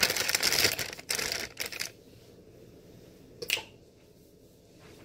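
Kitchen utensils and packaging being handled: dense rustling and clattering with sharp clicks for about two seconds, then one sharp click about three and a half seconds in.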